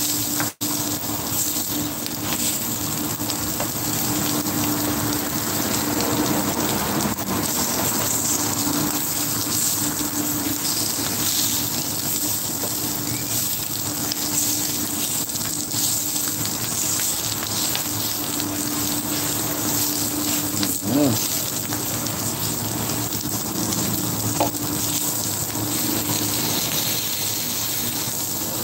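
Sausage pieces sizzling steadily on an electric griddle, with a faint low hum under the sizzle.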